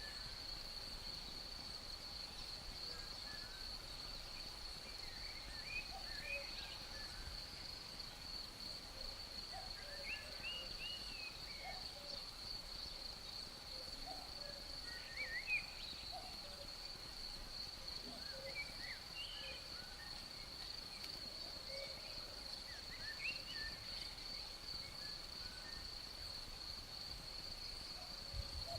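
A steady, unbroken high-pitched insect chorus, like crickets trilling, with scattered short bird chirps and whistles over it.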